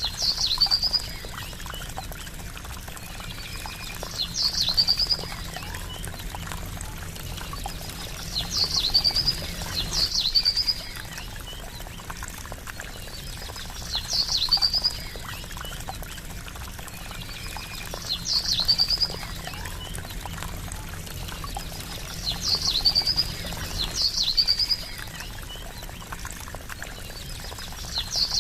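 Water trickling steadily, with a short high bird-like call repeating about every four seconds. Each call is a quick downward sweep that breaks into a brief trill.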